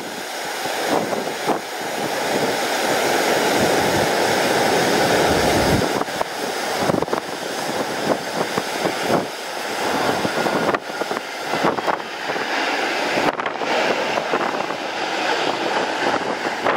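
Airliner on landing approach passing by, its jet engine noise swelling to a peak about five seconds in and then fading, with gusty wind buffeting the microphone.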